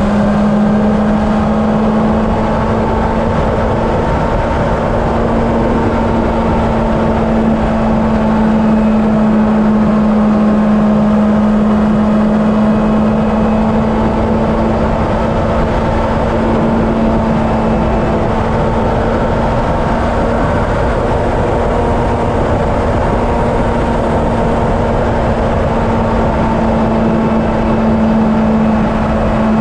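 Honda CB750 inline-four engine running at a steady highway cruise, its pitch holding nearly constant, under a constant rush of wind on the helmet or bike-mounted camera microphone.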